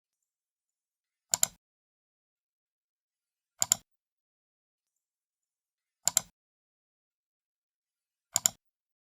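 Computer mouse left button clicked four times, a little over two seconds apart, each click a quick double snap of press and release, with silence between.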